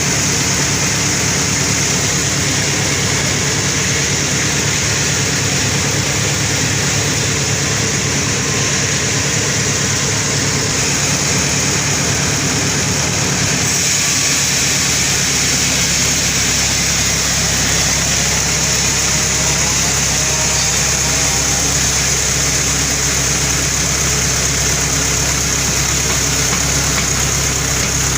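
Sawmill running steadily while it cuts a very large albasia log, with a deep engine drone under a high, hissing cutting noise. About halfway through, the sound shifts: the low drone thickens and the hiss grows stronger. The saw is working under a very heavy load from the oversized log.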